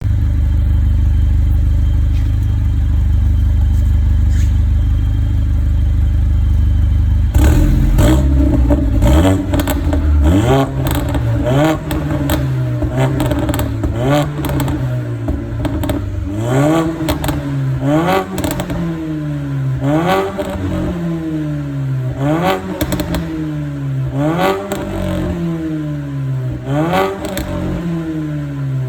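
Mercedes-AMG CLA45's turbocharged 2.0-litre four-cylinder breathing through a Supersprint exhaust and downpipe: it idles steadily, then from about seven seconds in is blipped about a dozen times in quick succession, each rev rising and falling with crackling pops and bangs from the exhaust as it drops back.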